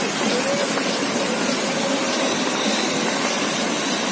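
Steady rushing and splashing of fountain water jets.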